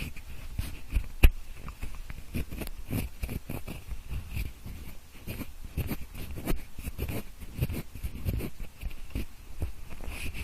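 Pencil scratching and rubbing close against the microphones in an ear-cleaning (mimikaki) style, heard in both ears at once: a run of short, irregular scraping strokes with one sharp tap about a second in.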